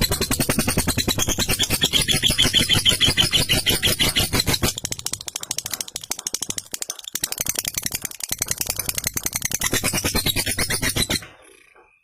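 Lovebird singing a long 'ngekek': a rapid rattling chatter of fast repeated notes, held on without a break, that cuts off suddenly near the end.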